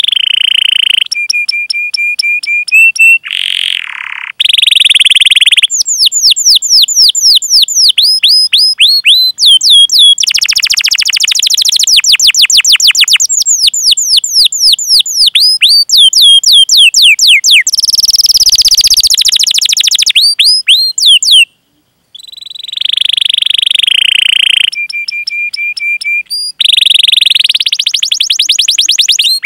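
Domestic canary singing a long, loud song: fast runs of falling whistled chirps, several a second, between held buzzy rolling trills and steady high notes, with a brief break about two-thirds of the way through.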